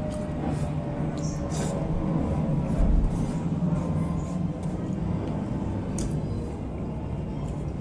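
Close-miked eating: chewing, with a few light clicks of a spoon on a plate and a low thump about three seconds in.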